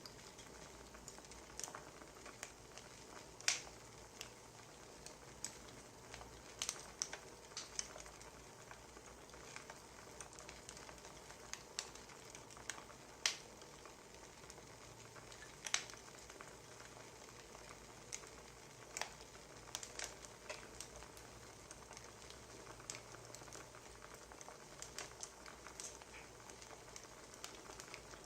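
Wood fire crackling: irregular sharp pops and snaps over a quiet steady hiss.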